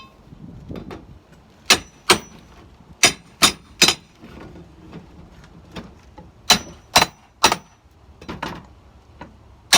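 Hammer striking a steel flat bar to set the finish nails in old window trim: about eight sharp metal-on-metal blows in groups of two and three, each with a short ring, with a few lighter taps near the end.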